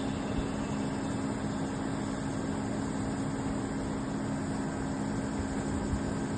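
A steady mechanical hum with two low steady tones over an even rush of noise.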